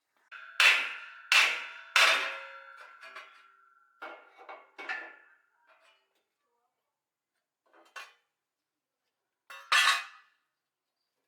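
Metal knocking on metal with a short ringing tone after each hit: three sharp clanks in quick succession, a few lighter ones a couple of seconds later, and one more loud clank near the end.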